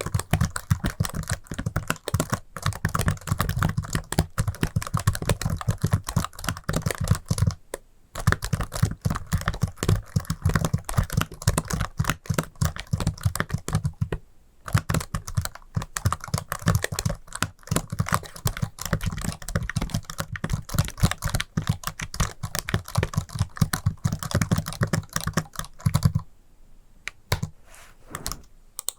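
Fast, dense finger tapping and clicking on hard objects, like rapid typing, with short pauses about 8 and 14 seconds in; the taps become quieter and sparser near the end.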